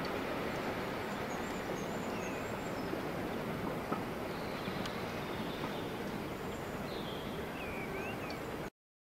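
Steady rumble of a steam-hauled passenger train heading away into a tunnel, slowly easing, with small birds chirping over it and one sharp tick about four seconds in. The sound cuts off suddenly near the end.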